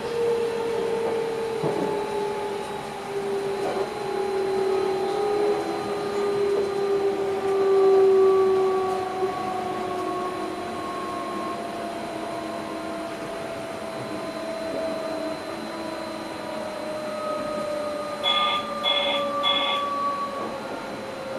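Electric train's traction drive whining inside the driver's cab, several tones sliding slowly down in pitch as the train slows. Near the end come three short electronic beeps from the cab.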